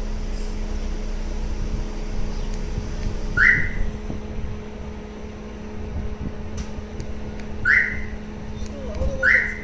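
A 2002 Lexus RX 300's 3.0-litre V6 idling steadily after being started by a remote start system. Three short high chirps sound over it, a few seconds in, near the eighth second and near the end.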